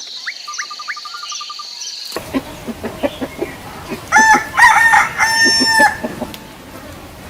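A rooster crowing once, in three parts ending in a long held note, about four seconds in, after some short clucks.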